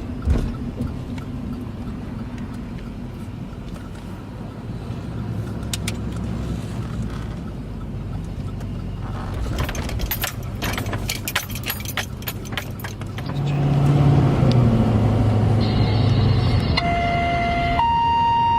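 Fire engine's diesel engine running, with a rapid clatter of sharp clicks in the middle. The engine then grows louder, its pitch bending as it revs, and near the end a steady warning tone sounds, first lower and then higher.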